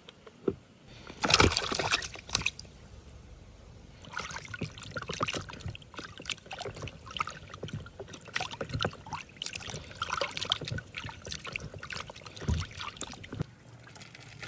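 Water sloshing and trickling, with a louder splash about a second in, then many small splashes and clatters as things are handled in water.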